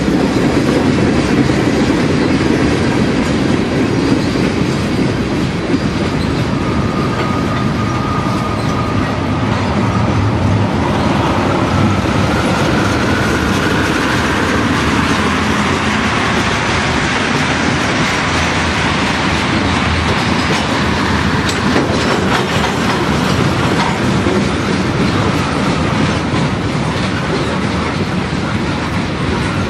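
Freight cars of a long train (boxcars, tank cars and lumber-loaded centerbeam flatcars) rolling past close by: a steady rumble of steel wheels on rail with clickety-clack over the rail joints. A thin wheel squeal comes in about a quarter of the way through and rises slightly in pitch until about halfway.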